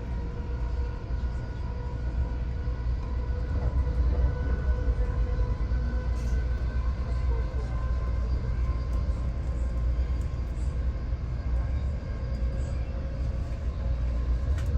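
Steady low rumble of a moving double-deck commuter train heard from inside the car, with a faint whine that rises slightly in pitch as it runs.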